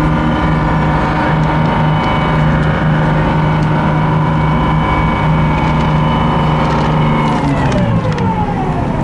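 Higgins boat (LCVP) landing craft's engine running steadily under power, then dropping in pitch from about seven seconds in as it throttles back on the run-in to the beach.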